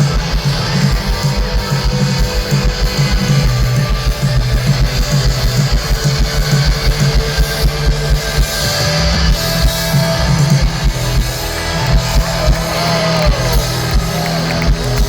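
Live rock band playing an instrumental passage: electric guitar over a drum kit keeping a fast, steady beat, loud through the PA.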